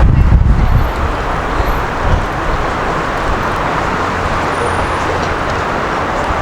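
Busy city street ambience with road traffic going by: a steady wash of noise, with a heavier low rumble in the first second or so.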